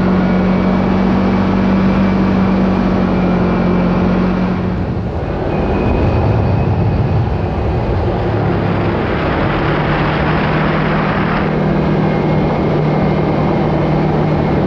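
Kawasaki KRX 4 side-by-side's parallel-twin engine running steadily under way, with a dip and change in engine note about five seconds in and a stretch of added hiss around the middle.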